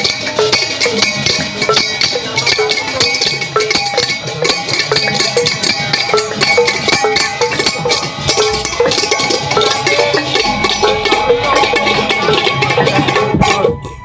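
Percussion music of ringing metal bells and gongs with a quick, steady run of struck notes, dipping briefly near the end.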